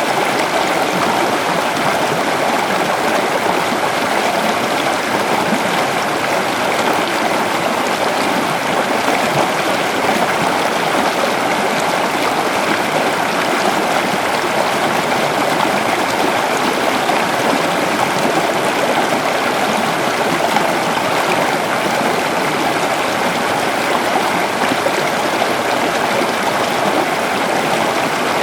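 A river flowing over stones: a steady, even rush and babble of running water.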